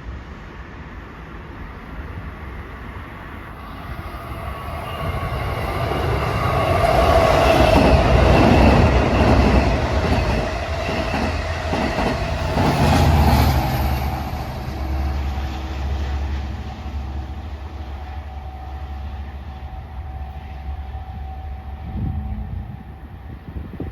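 Long Island Rail Road train passing through the station, its noise building to a loud peak about seven to ten seconds in, surging again briefly, then easing into a steady low rumble.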